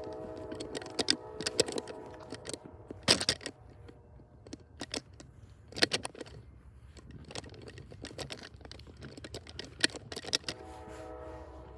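Sharp clicks and knocks of the recording device being handled. Under them, a distant train horn sounds a chord of several tones near the start and again near the end as a Norfolk Southern train approaches the crossings.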